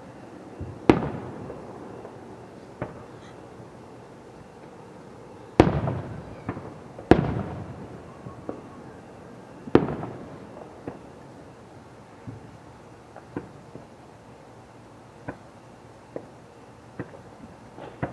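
Aerial fireworks shells bursting: four loud booms in the first ten seconds, each trailing off in a rumble, then a scattering of smaller, fainter pops.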